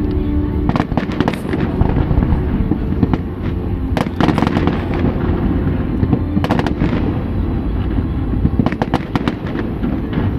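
Aerial fireworks display going off without pause: a continuous deep rumble of booms, with clusters of sharp crackling pops about every two to three seconds.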